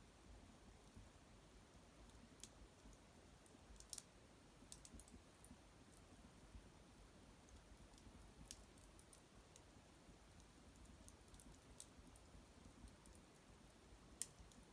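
Faint, scattered crackles and pops from a small hearth fire, irregular and a second or more apart, with one louder pop near the end.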